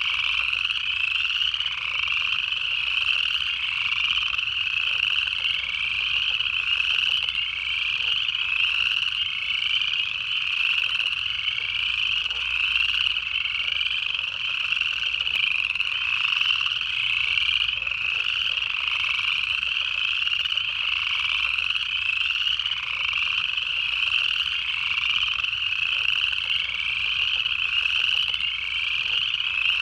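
Dense, continuous chorus of upland chorus frogs: many overlapping short, rising trills repeating without a break.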